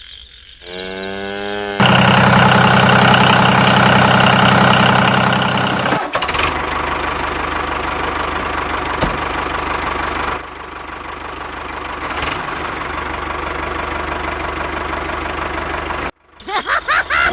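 Small tractor engine running: loudest for about four seconds near the start, then settling into steadier running, cutting off suddenly near the end.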